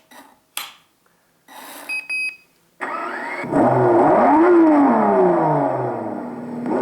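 A few clicks and two short electronic beeps from the slot car test bench, then its engine sound starts about three seconds in: a car engine starting, revving up and falling back, then running steadily, for the BMW 635 CSi slot car being started on the bench.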